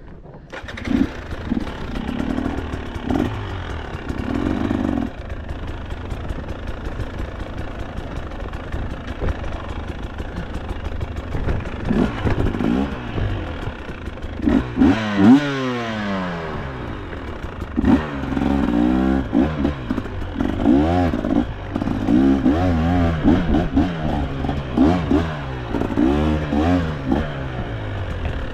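KTM two-stroke enduro dirt bike engine comes in abruptly at the start and then revs up and down over and over as the bike is ridden over rough trail, with mechanical clatter from the bike.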